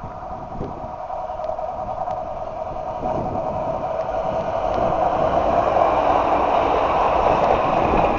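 Kintetsu limited express electric train approaching, its running noise growing steadily louder with a rising whine and faint clicks from the rails.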